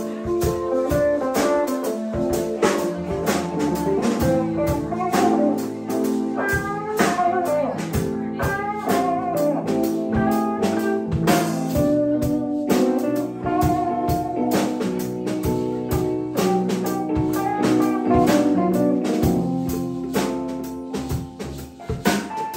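Live band playing a blues-style jam, a guitar to the fore with bending notes over a full band with sharp percussive hits; the playing thins out and drops in level near the end.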